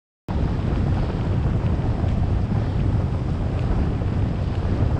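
Wind buffeting the microphone of a bike-mounted camera while cycling: a loud, steady, low rumble that cuts in suddenly from dead silence about a third of a second in.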